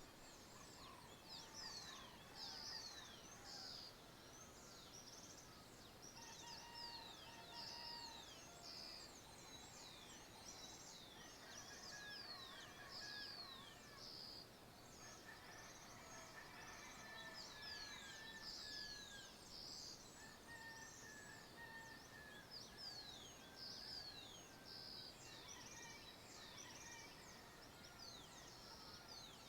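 Faint dawn chorus of several birds in open countryside. Rapid, repeated high descending whistled notes keep going throughout, with slower drawn-out calls lower down, over a soft steady background hiss.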